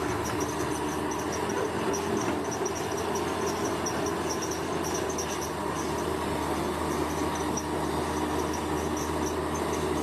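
Heavy earthmoving machine's engine running steadily, with a fast, high chirping over it.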